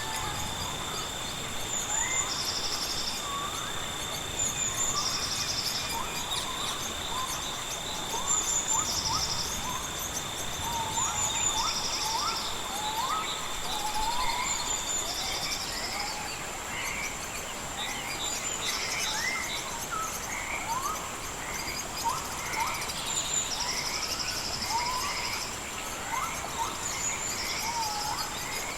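Many birds chirping in short rising calls, over steady high insect trilling with a soft even hiss of gentle rain beneath. One steady high tone stops about halfway through.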